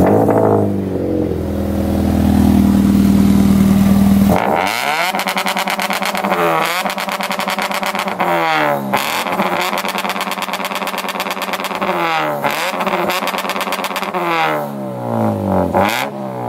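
Scion FR-S's flat-four engine holding a steady, loud idle for about four seconds, then revved again and again, its pitch rising and falling with each blip.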